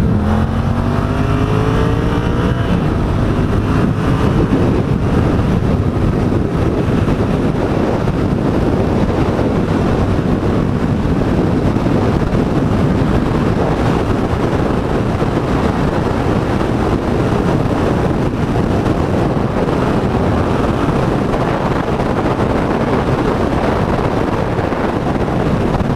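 Motorcycle accelerating hard, its engine note rising over the first few seconds, then a steady rush of wind on the microphone at high speed, with the engine running underneath.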